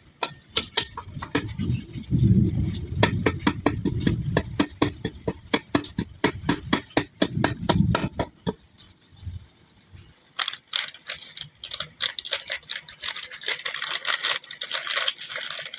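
Rapid, irregular clicking and rattling of metal tools and engine parts being handled, with low knocks under it for the first half. After a short lull about nine seconds in, the clatter comes back denser and busier.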